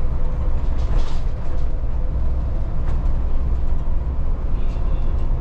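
Volvo 8900 city bus heard from inside the cabin while driving: a steady low diesel engine and road rumble, with a couple of light rattles from the cabin.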